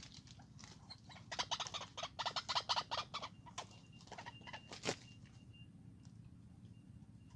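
A bird calling: a rapid run of harsh clucking notes starting about a second in and lasting about two seconds, followed by a single sharp click.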